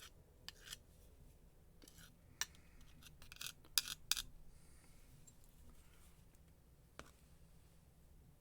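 Faint, light clicks and short scrapes of a tool working grease around the gears inside an angle grinder's open gearbox. There is a quick run of them in the first four seconds and a single click about seven seconds in.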